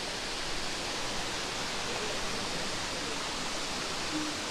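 Steady rushing roar of a waterfall, an even noise with no breaks.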